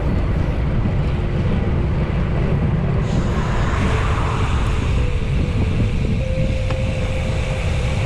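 Wind buffeting the microphone of a camera on a moving bicycle, a steady, loud rumble.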